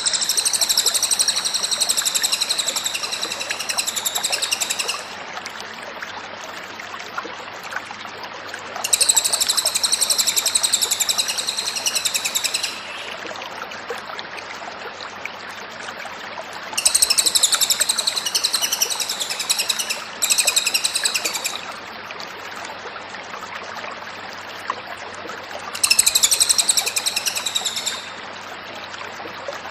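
A cililin bird singing in bouts of high, rapid, trilling song a few seconds long, repeated roughly every eight to nine seconds. A steady background hiss fills the gaps between them.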